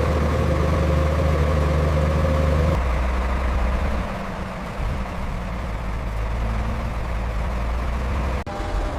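Heavy truck engine idling steadily, its low hum changing abruptly about three seconds in and again near the end.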